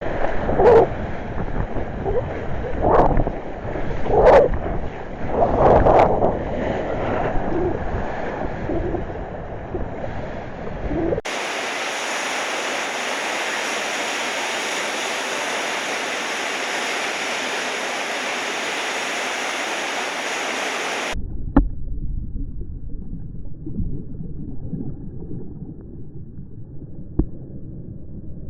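Ocean surf and wind buffeting the microphone of a camera out in the water, rising and falling in gusts. About eleven seconds in it cuts abruptly to a steady, even hiss for about ten seconds, then to a duller, muffled rush of water.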